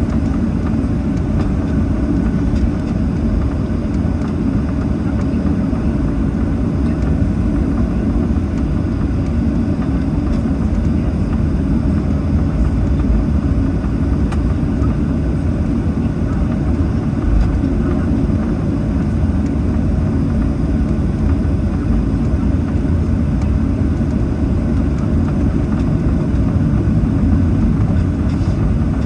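Steady low rumble inside the cabin of a Boeing 737-800 taxiing on the ground, its CFM56-7B turbofan engines running at taxi power.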